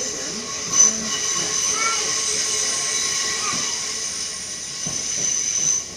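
Passenger train heard from inside the carriage, running with a steady high-pitched metallic squeal from its running gear. There is a sharp knock about a second in, and the squeal cuts off just before the end.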